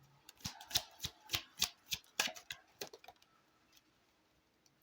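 Oracle cards being shuffled by hand: a quick run of about a dozen crisp card snaps over roughly three seconds, then stopping.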